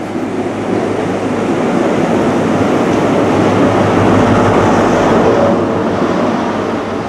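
A High Speed Train led by its diesel power car passes close beneath. The engine and wheel noise swells to its loudest as the power car goes under, about four to five seconds in, then eases off as the coaches roll by.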